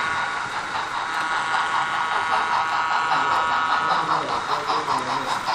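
Model trains running on a layout: a steady whine, joined about halfway through by a rhythmic beat of about four pulses a second.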